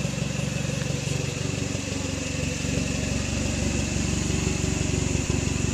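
2003 Hyundai Tiburon's 2.0-litre four-cylinder engine idling through its mostly stock exhaust: a steady, evenly pulsing low note that gets a little louder about halfway through.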